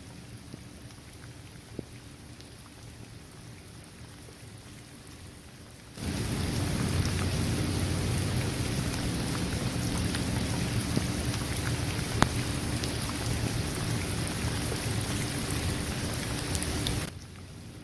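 Steady rain falling on a hard court, trees and grass, with scattered single drops. About six seconds in it suddenly becomes much louder and fuller, heavier rain with a deep low rumble underneath, then cuts back to the lighter steady rain just as suddenly near the end.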